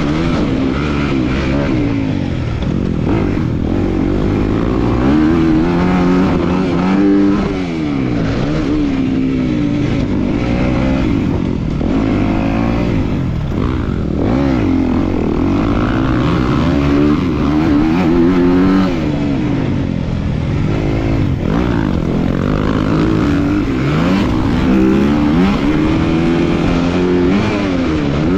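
250 class motocross bike engines revving up and down through the gears, with the pitch rising and falling over and over as the bikes race around the track.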